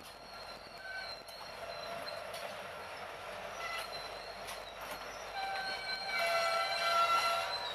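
BNSF diesel locomotives running past at track speed in the middle of a long freight train. Thin high squealing tones grow louder over the last couple of seconds.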